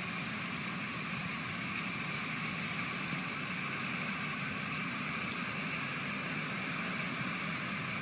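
Fast-flowing floodwater rushing in a steady, unbroken roar.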